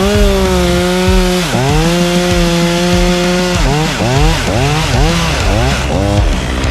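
Two-stroke chainsaw running at high speed, holding a steady pitch that sags a little as it works for about three and a half seconds, then revving up and down over and over.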